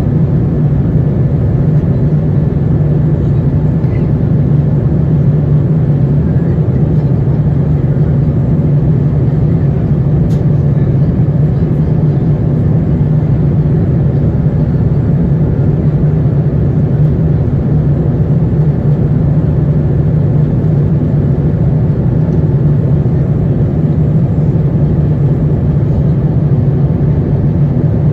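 Steady cabin drone of an Airbus A350-900 taxiing, its Rolls-Royce Trent XWB engines running near idle, heard from inside the passenger cabin as an even low hum that does not rise or fall.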